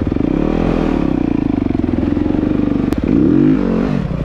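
Dirt bike engine running with the throttle worked on and off, the revs swelling and dropping several times. A sharp click about three seconds in, then a brief louder rev.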